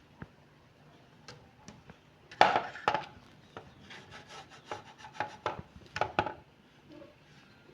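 Hand rubbing or scraping strokes on an old PC case, with a few sharp clicks. About two and a half seconds in, a run of short strokes starts, about three to four a second, and it stops near the end.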